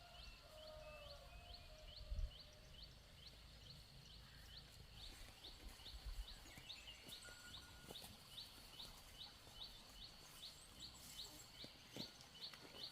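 A small creature's high, short rising chirp repeats steadily about twice a second over faint outdoor background, with a couple of low thumps.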